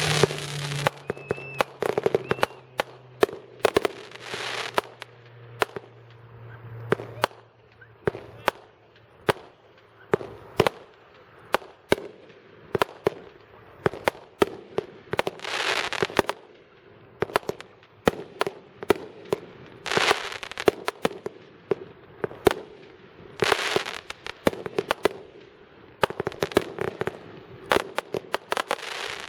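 Consumer fireworks going off: a long run of sharp bangs and pops, with a hissing burst every few seconds.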